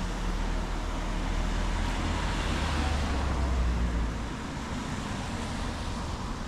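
A motor vehicle passing on a city street: a low engine rumble with tyre hiss that builds to about four seconds in, then fades.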